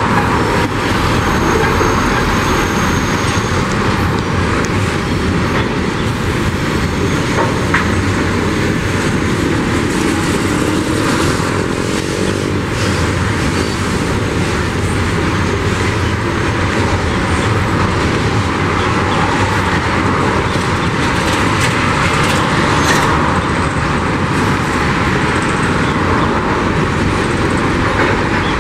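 Freight train's boxcars rolling past on a curve: a steady noise of steel wheels on rail, with scattered clicks and a faint high wheel squeal in the first few seconds.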